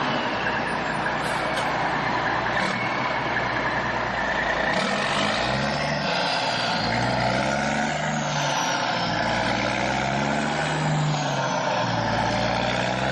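Vehicle engine sound, steady and continuous, with pitch that rises and falls in places.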